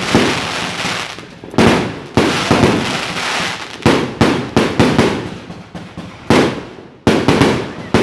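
Fireworks going off: about a dozen sharp bangs at irregular intervals, each fading away over a fraction of a second.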